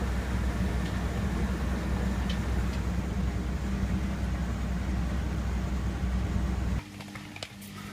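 Candy Aquamatic 1000T compact washing machine running with a loud steady hum and rushing noise, which cuts off abruptly near the end, leaving a faint hum and a few light ticks.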